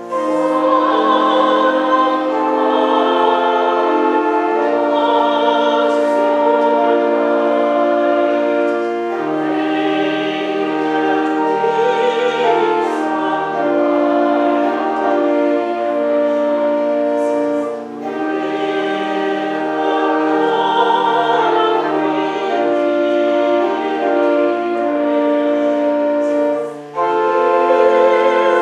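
Church pipe organ playing a hymn in sustained chords, with voices singing along. The music pauses briefly twice between phrases.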